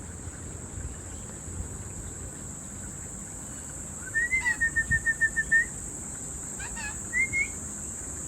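A bird calling: a quick run of about ten short, even whistled notes, then two brief rising notes about a second later. Under it runs a steady high insect drone.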